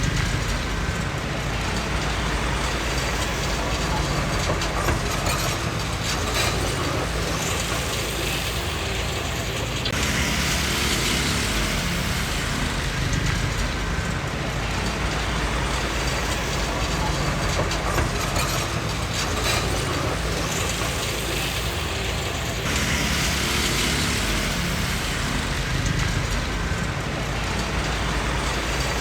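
Komatsu D20P crawler bulldozer working: its diesel engine runs steadily under a dense metallic clatter from the steel tracks and undercarriage, with the clatter swelling louder twice.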